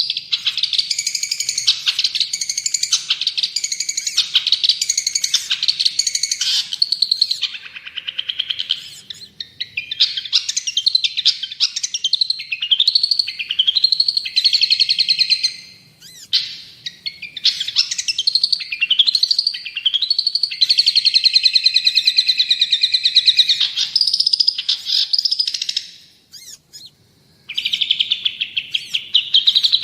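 Long-tailed shrike (cendet) singing vigorously: fast trains of rapidly repeated high notes, runs of upward-sweeping notes, and dense chattering phrases, with a brief pause near the end.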